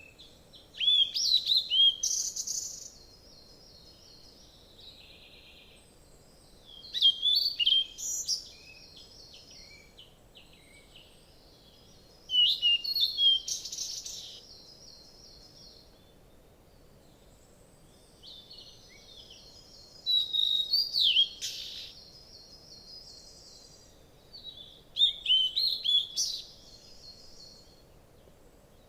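A songbird singing a short, high-pitched phrase of chirps and buzzy trills, repeated five times about every five to six seconds, over faint steady forest background noise.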